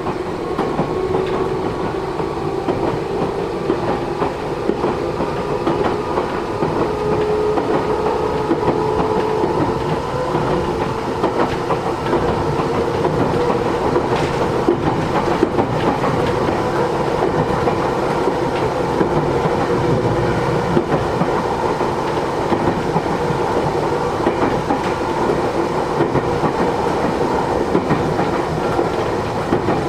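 Matsumoto Electric Railway 3000-series electric train running at speed, heard from inside the passenger car. Steady rumble of wheels on rail with the clickety-clack of rail joints and a held hum from the running gear.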